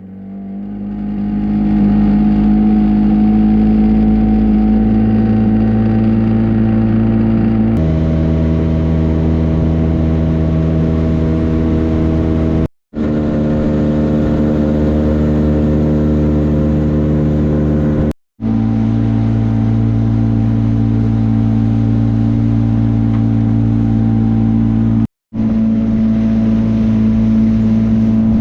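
A motor engine running at a steady speed, its pitch holding even, in clips joined by abrupt cuts to silence about a third, two thirds and nine tenths of the way through.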